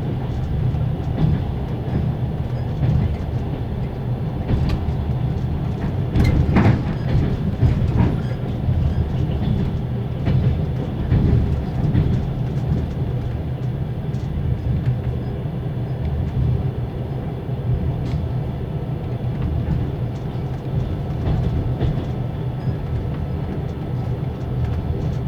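Inside a compartment of a Russian passenger coach on the move: a steady low rumble from the running gear, with the hum of the carriage's axle-driven generator and scattered clicks and knocks from the wheels over rail joints. One sharper knock comes about six seconds in.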